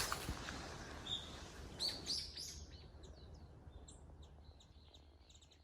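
Small birds chirping, short high calls repeated many times, as the outdoor sound fades out toward the end.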